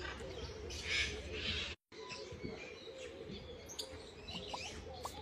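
Many birds chirping and calling at once, short overlapping chirps over a steady low background hum. The sound cuts out for an instant about two seconds in.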